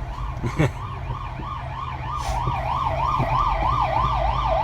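Emergency vehicle siren in a fast rising-and-falling wail of about three sweeps a second, growing louder. It is heard from inside a moving car, over the steady hum of the engine and road.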